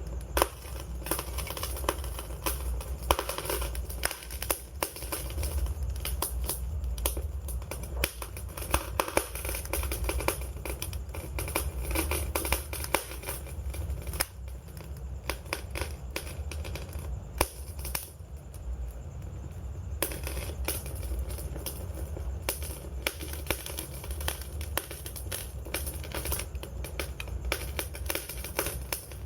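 Wood fire crackling, with many sharp, irregular pops and snaps over a low, steady rumble.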